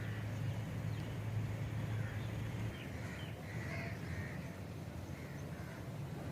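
Crows cawing several times, mostly in the second half, over a low steady hum that weakens almost three seconds in.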